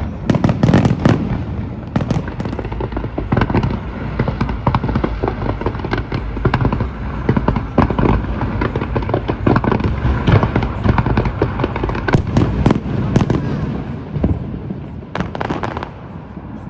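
Fireworks display: a dense, continuous run of bangs and crackling bursts, with heavier clusters of reports near the start and twice more toward the end.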